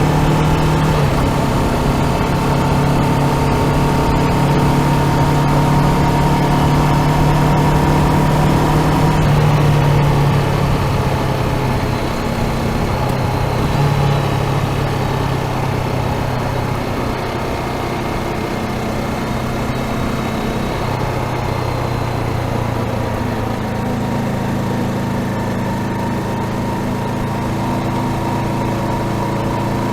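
Honda CBR500R's parallel-twin engine running steadily under way. Its pitch shifts in small steps, and it gets a little quieter about twelve seconds in.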